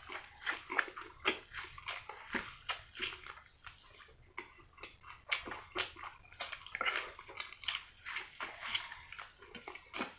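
Close-miked chewing and wet lip-smacking as a man bites into and eats a soft rolled egg pancake, with irregular smacks several times a second.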